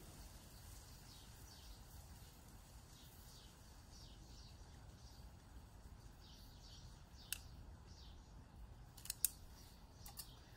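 Faint bird chirps repeat in a quiet background. A few sharp clicks come in the last few seconds, the loudest a quick pair.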